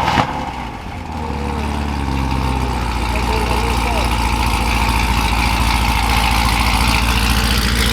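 A car engine idling steadily. It grows louder over the first few seconds, then holds an even, low running note.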